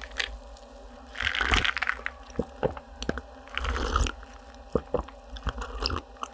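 Close-miked eating of a croffle: two crisp, crackling bites about a second in and again around three and a half seconds, with short sharp clicks and squishy chewing between them.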